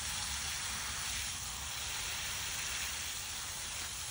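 Garden hose spray nozzle spraying water onto the plants, a steady, even hiss.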